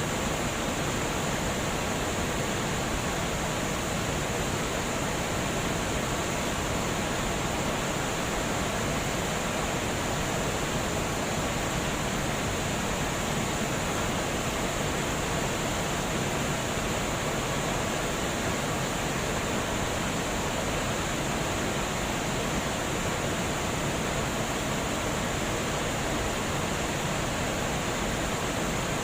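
Water rushing steadily over a dam, an even, unbroken rush of water noise.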